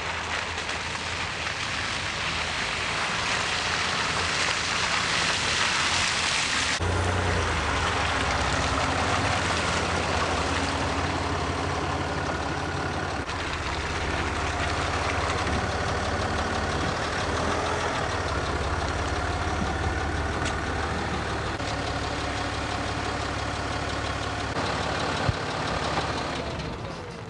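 Steady vehicle engine noise with a low hum, its character changing abruptly about seven seconds in.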